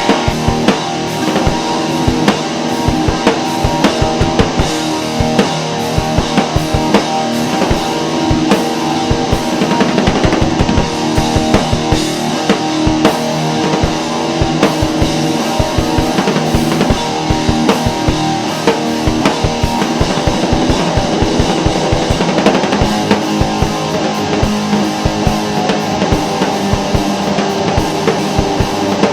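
Rock music: a band playing with a drum kit and guitars, the drums keeping a fast, steady beat.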